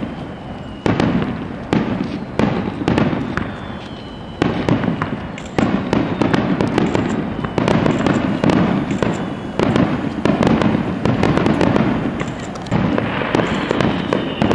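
Aerial fireworks shells bursting in a rapid barrage (a starmine), bangs coming several times a second and overlapping, each trailing off in an echo. A high whistling tone comes in near the end.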